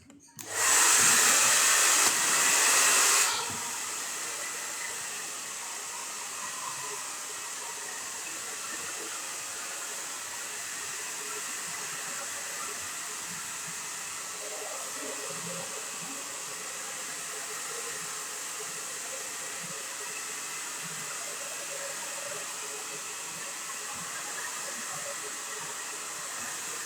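Hand-held hair dryer blowing steadily, louder for the first three seconds, then running on at a lower, even level.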